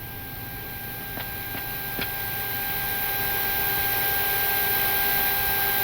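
Boeing 737-800 flight-deck noise during pushback and engine start: a steady hum with a thin whine, under a rushing noise that swells over the first three seconds and then holds, typical of an engine spooling up. A few light clicks come about a second and two seconds in.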